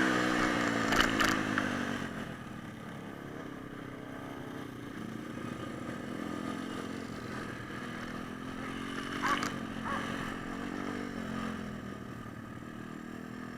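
Pit bike engine, its note falling and fading in the first couple of seconds as the bike rides off. The engine keeps running more quietly at a distance, swelling a little about nine to eleven seconds in, with a few short knocks.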